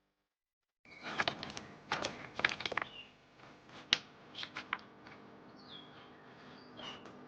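A run of sharp clicks and knocks, loudest from about one to five seconds in, mixed with a few short bird chirps that go on after the clicks stop.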